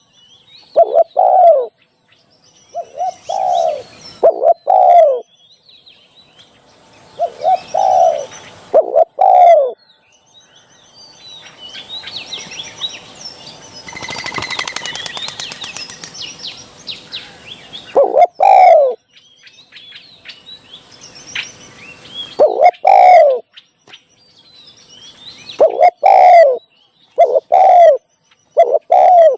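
Spotted dove cooing: loud phrases of two or three falling notes, repeated about a dozen times with pauses between. Midway the cooing stops for several seconds while other birds chirp and twitter.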